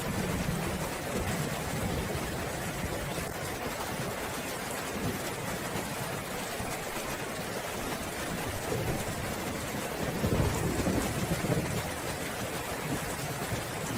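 Steady heavy rain with rumbling thunder, the rumble swelling louder about ten seconds in and fading again.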